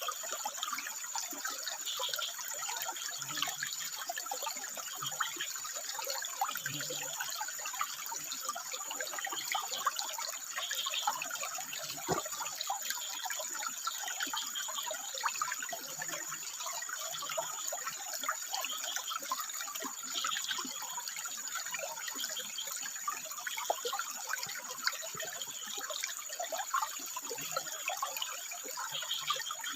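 Water trickling and splashing over rocks in a steady flow, with frogs giving short calls every second or two and a steady high-pitched tone behind it.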